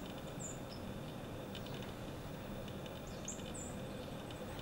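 A small bird gives short, high chirps, two in quick succession near the start and two more about three seconds in, over a steady low outdoor rumble.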